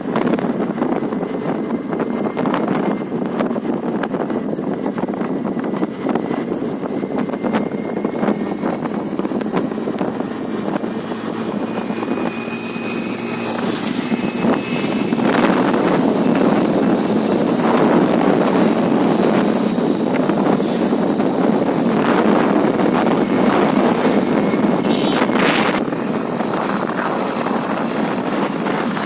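Honda Dio scooter on the move: a steady mix of engine, road and wind noise on the microphone, a little louder from about halfway. A faint thin whine rises slightly near the end.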